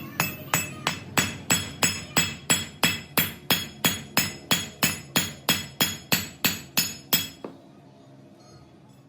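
Hammer striking steel in a steady rhythm, a little under three ringing blows a second, stopping about seven and a half seconds in.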